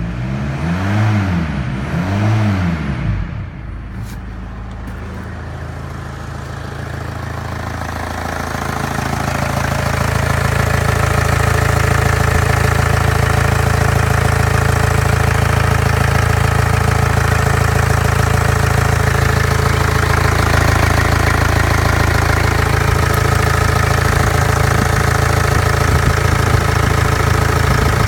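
Audi A4 B5's 1.9 TDI (AFN) four-cylinder turbodiesel engine revved up and down twice in the first few seconds, then idling steadily, growing louder over several seconds before holding even.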